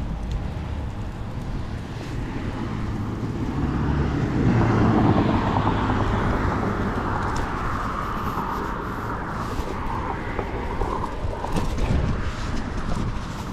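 Road traffic over a low rumble of wind and road noise: a motor vehicle passes, growing loudest about five seconds in and then slowly fading.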